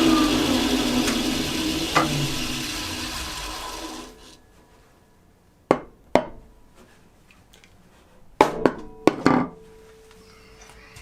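Craftsman contractor table saw winding down after being switched off, its hum falling in pitch and fading away over about four seconds. Then several sharp knocks and clunks, a pair about five to six seconds in and a cluster near eight to nine seconds.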